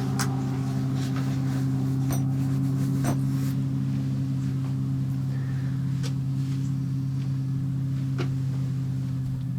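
A steady low hum, one tone with a second tone an octave above it, holding unchanged throughout, with a few faint clicks.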